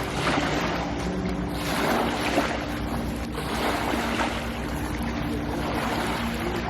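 Small waves washing on the shore in slow swells, with wind on the microphone and a faint steady low drone underneath.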